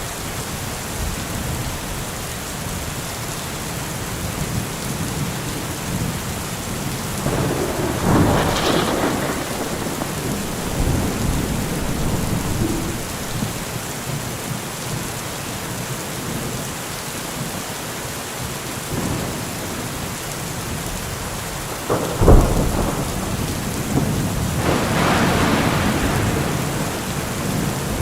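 Steady heavy rain with thunder. A rolling rumble swells about a quarter of the way in, a sharp crack comes near the end, and a longer rumble follows it.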